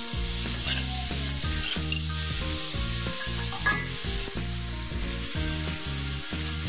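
Sliced bitter gourd and shrimp sizzling in hot oil in a metal pan while being stirred with a metal spatula, with one sharp scrape of the spatula against the pan a little past halfway. Soft background music plays underneath.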